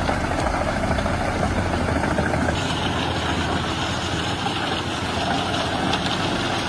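Heavy machinery engine running steadily, with dense mechanical noise; the sound brightens and sharpens about two and a half seconds in.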